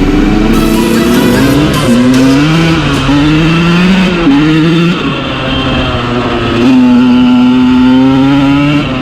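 2013 KTM 125SX's single-cylinder two-stroke engine revving under riding, its pitch rising and falling with the throttle and then holding steady for about two seconds near the end.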